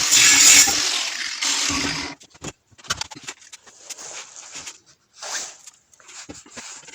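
A power tool runs until about two seconds in and then stops. After that come scattered short scrapes and knocks of handled metal.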